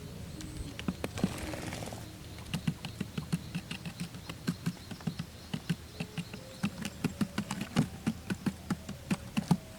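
Birds pecking and scratching at cardboard: many quick, irregular taps, a few a second, after a brief rustle near the start.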